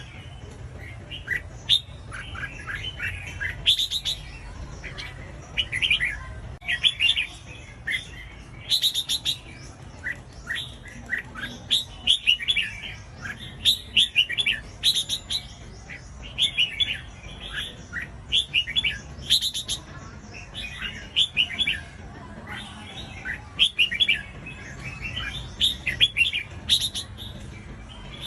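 Red-whiskered bulbul singing: short, quick warbled phrases repeated every second or two, with sharp high chirps among them, over a low steady hum.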